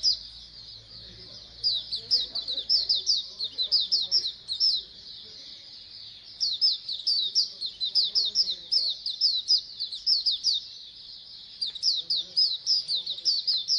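A group of white-eyes (pleci) singing: three bouts of rapid, high, downward-sliding chirped notes, with short pauses between them.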